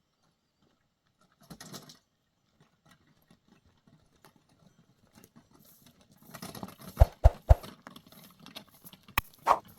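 Quiet handling noise, then a run of sharp knocks and clatter in the second half, with a few loud single knocks near the end.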